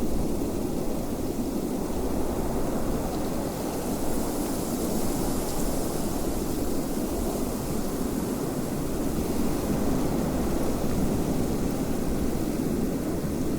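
Steady wind, a low rushing noise without pause.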